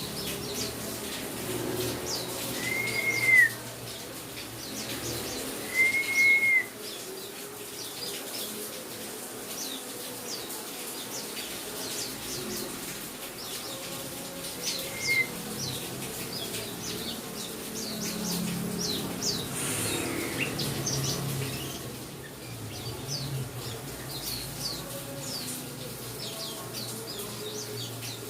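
Small songbirds, white-eyes (pleci), chirping in a steady stream of quick, high, falling notes, with two loud arched whistles about three and six seconds in.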